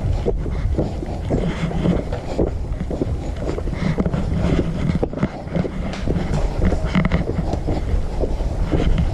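Wind buffeting the microphone over a steady low rumble, with scattered small knocks throughout.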